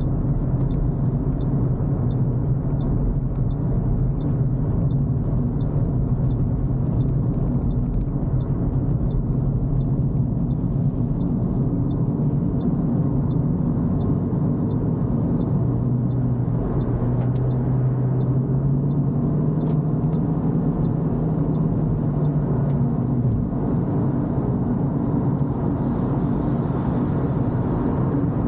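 Toyota Corolla driving on a wet road: steady engine and road rumble, with the engine note rising for several seconds past the middle as the car speeds up. A light, regular ticking, two to three a second, runs through the first half and fades out.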